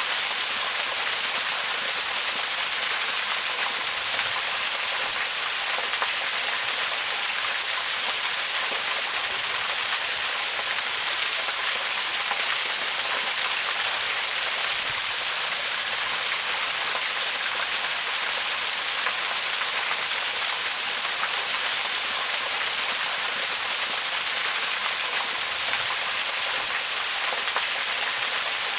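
Waterfall: steady rushing and splashing of falling water, a constant hiss with most of its energy in the high range.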